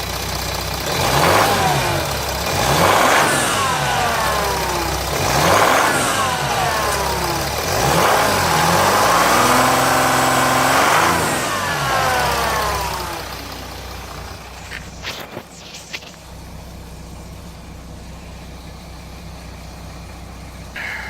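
Jeep Grand Cherokee 3.0 CRD V6 diesel (Mercedes OM642) revved four times, the last rev held for a few seconds, then settling back to idle, with a few sharp clicks soon after. It idles with a rattle that the owner suspects is a loose oil pump chain.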